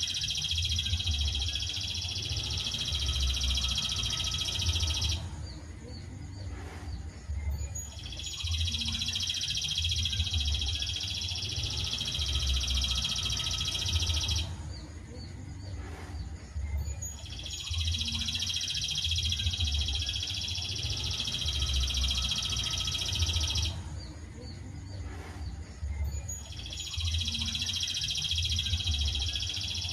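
Songbird masteran track: a dense, continuous, high trilling song in stretches of about five to six seconds, broken by pauses of about three seconds and repeating evenly like a loop. A low rumble runs underneath.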